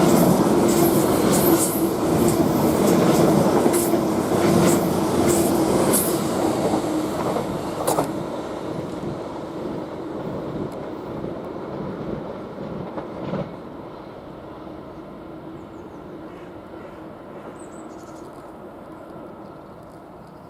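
Class 745 electric multiple unit passing through the station non-stop at speed. A steady hum and rapid clicks from the wheels on the rails come first, with a last sharp click about eight seconds in. The sound then fades away to a distant rumble.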